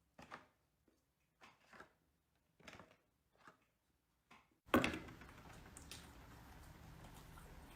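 Close-miked eating sounds: a handful of short, soft mouth or utensil sounds spaced out over near-silent background, then a sharp click a little past halfway, after which a steady faint hiss carries on.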